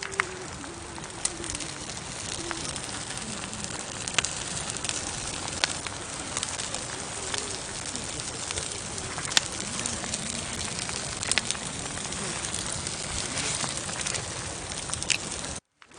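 Campfire burning: a steady hiss of flames with frequent sharp crackles and pops of burning wood. The sound cuts out for a moment near the end.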